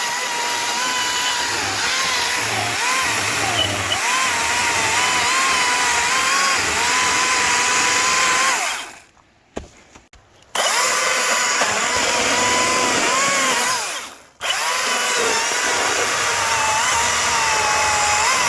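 ECHO DCS-2500T 56-volt battery chainsaw cutting wood. Its electric motor whines steadily, and the pitch sags and wavers as the chain bites into the cut. The saw stops briefly about nine seconds in and again about fourteen seconds in, then spins back up each time.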